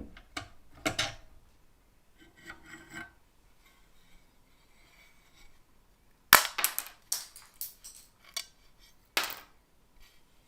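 Hard objects, metal parts and tools, being handled and set down: a series of sharp clacks and knocks with quiet gaps between them. The loudest hit comes about six seconds in, followed by a quick run of smaller ones.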